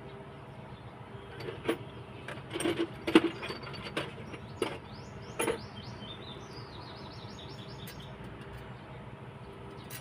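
Sharp metal clicks and clinks of hand tools being worked on an engine, loudest about three seconds in, followed by a quick run of short high chirps lasting a few seconds.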